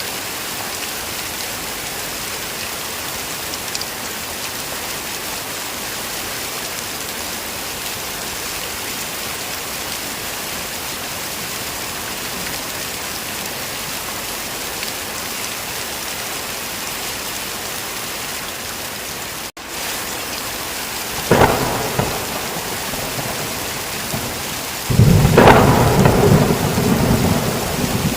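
Heavy rain falling in a steady, even hiss. About two-thirds of the way through, a sharp thunderclap breaks in, and some three seconds later a louder, rolling rumble of thunder sets in and runs on under the rain.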